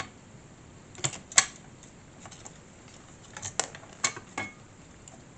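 Small scale-model parts clicking and tapping as they are handled and pressed into place: a few sharp taps about a second in, then a scatter of lighter clicks in the second half.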